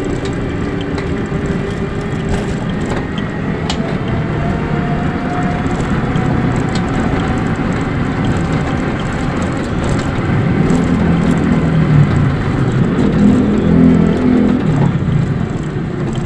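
Steady rumble and hiss of riding in a small vehicle on the road. A faint whine slowly rises in pitch a few seconds in, and a deeper engine-like hum swells in the second half.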